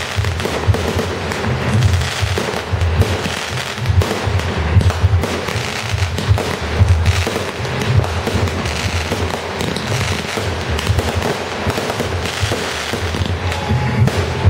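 Aerial fireworks bursting overhead in a dense, continuous run of pops, bangs and crackle. Music with a pulsing bass beat plays underneath.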